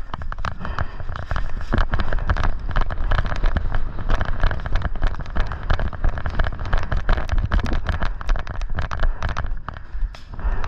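Airsoft guns firing: dense, irregular sharp cracks and pops, many a second, over a steady low rumble.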